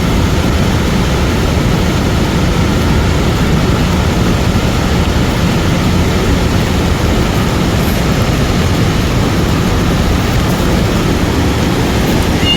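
Cold lahar mudflow from Mount Semeru rushing down a river channel: a steady, loud wash of water, heaviest in the low end.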